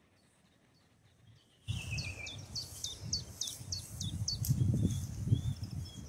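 A bird singing a series of short, high, downward-sliding notes, about three a second, over a low, gusty rumble of wind on the microphone. Both begin abruptly about two seconds in, after near silence.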